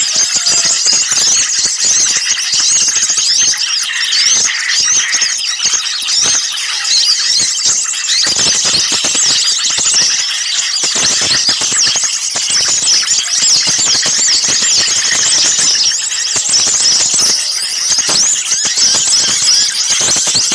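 A dense, noisy chorus of many small songbirds chirping and calling over one another without pause, in rapid high chirps and short trills. It is a bird-lure recording of agitated small birds used to draw other birds in.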